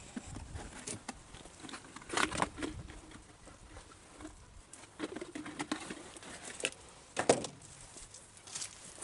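Scattered clicks, light knocks and rustles of parts being handled, with louder bursts about two, five and seven seconds in.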